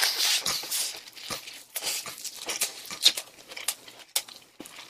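Chewing of a mouthful of gimbap close to the microphone. A dense noisy burst at the first bite, then a run of short, sharp wet mouth clicks and smacks.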